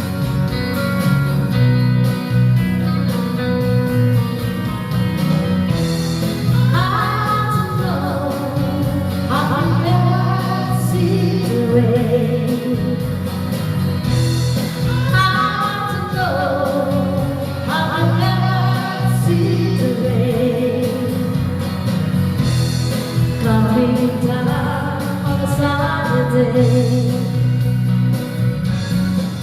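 A voice singing karaoke over a band backing track with guitar. The singing comes in about six seconds in, with held, wavering notes over the steady accompaniment.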